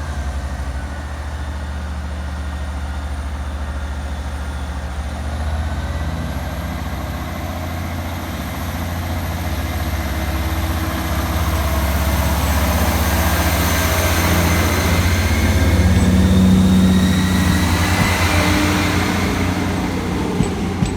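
Class 158 diesel multiple unit pulling away from the platform, its diesel engines working under power with a steady deep drone and a slowly rising whine. It grows louder as the train gets under way, peaking about two thirds of the way through.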